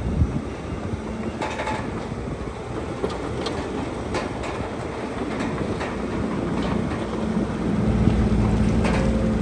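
Bulldozer's diesel engine running steadily, with scattered sharp metallic clanks; the engine gets louder from about seven seconds in.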